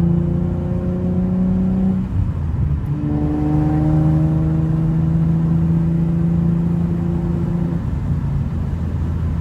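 Infiniti G37's 3.7-litre V6 pulling under acceleration, its pitch rising slowly. The pitch breaks off as the car shifts up about two seconds in, then climbs again in the next gear until the driver lets off near the end.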